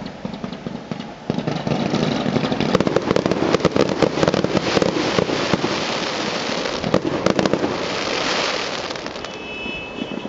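Fireworks going off: a rapid, dense run of crackles and bangs starting about a second in, easing into a hissing stretch that dies away near the end.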